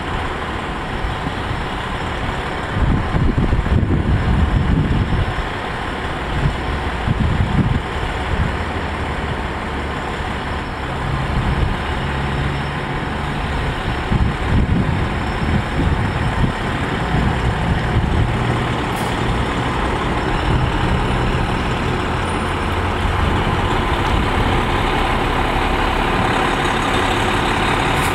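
A fire engine's heavy truck engine running, with uneven surges in loudness during the first several seconds, then a steadier run.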